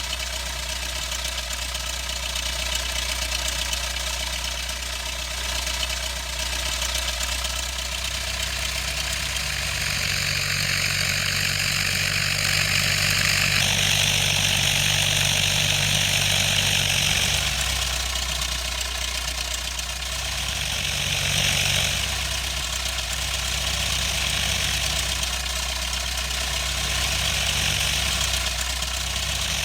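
Cessna 152's four-cylinder Lycoming engine and propeller running steadily at low power, as when taxiing. Near the middle the sound swells for several seconds with more hiss, then settles back.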